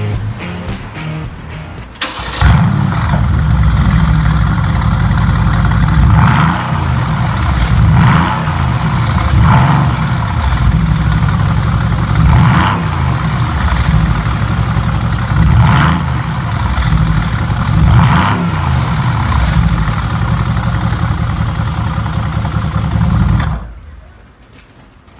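Mercedes-AMG GT's twin-turbo V8 through a custom one-off exhaust, coming in suddenly and loudly about two seconds in. It runs at idle and is blipped about six times, each rev rising briefly and falling back, then fades away near the end.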